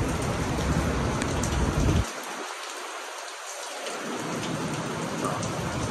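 Heavy rain from a tropical storm band pouring steadily, with a loud low rumble under it that cuts off abruptly about two seconds in and slowly returns near the end.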